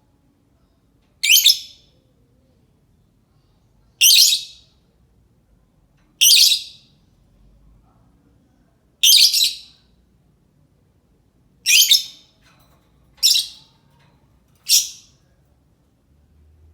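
Lovebird giving seven short, shrill, high-pitched calls, spaced about one and a half to three seconds apart, with near silence between them.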